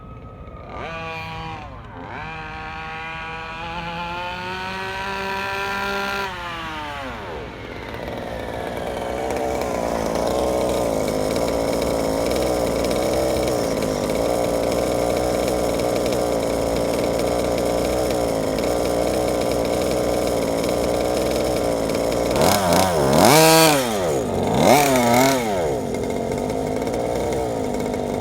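Small 32cc two-stroke gas engine of a 1/5-scale RC car being run in. It revs up over several seconds and falls back, then runs steadily, with two quick sharp rises and falls in pitch near the end.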